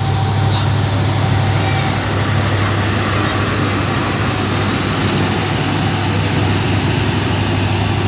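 Steady drone of a diesel locomotive running, a constant low hum with a wide hiss over it.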